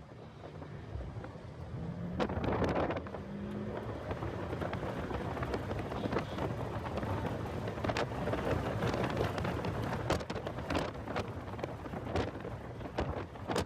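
Heavy wind noise buffeting the microphone of a car lapping a race track at speed, a dense rumble full of crackles that grows louder about two seconds in. The car's engine is faint beneath it, a steady tone heard in the first few seconds.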